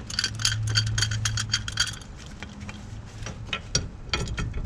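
A steel C-clamp and an old brake pad being handled against a brake caliper: quick metallic clinks and rattles for about two seconds, then scattered clicks. A low hum sounds under the first two seconds.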